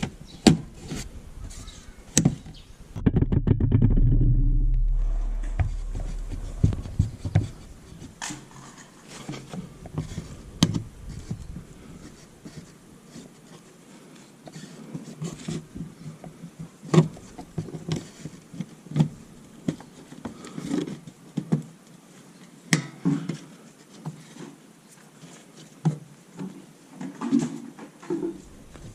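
Irregular clicks and knocks throughout, with a low rumble that swells about three seconds in and fades out over the next few seconds.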